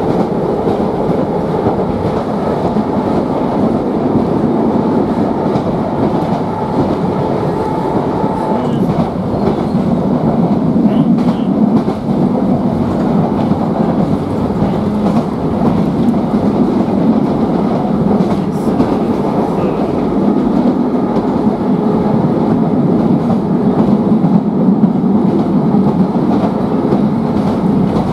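Interior of an Island Line Class 483 electric train, ex-London Underground 1938 tube stock, running at speed. The wheels on the rails make a steady running noise with a few faint clicks, a little louder from about ten seconds in.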